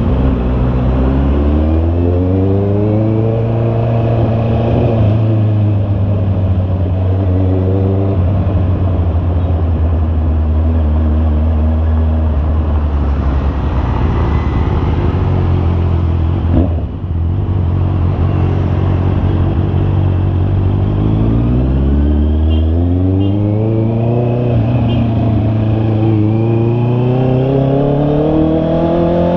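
Honda CB650R's inline-four engine under way, its pitch climbing and dropping back at each upshift as the bike accelerates through the gears, then holding steady at cruise for a while before climbing through several more upshifts near the end.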